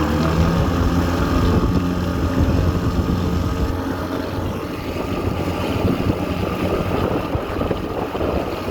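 1983 Johnson 7.5 hp two-stroke outboard motor running steadily under way, pushing a small aluminium boat across a lake, with wind noise on the microphone.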